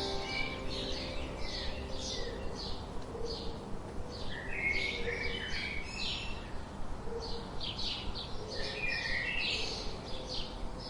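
Small songbirds chirping and twittering in a steady stream of quick, short high notes over a soft, even background of gentle wind.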